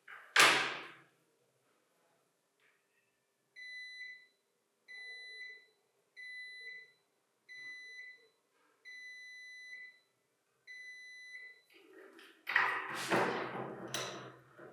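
A multimeter's continuity beeper sounds in short paired beeps, about one pair every second and a half, as the probes are touched to the electric motor's rotor windings and commutator. A sharp knock comes at the start, and a loud clatter of handled metal parts comes near the end.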